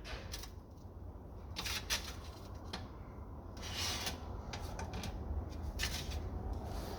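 Light, irregular metallic clicks and scrapes of Pinto cylinder-head valve-train parts (valve, spring, retainer and collets) being handled and set together in a tray, over a steady low hum.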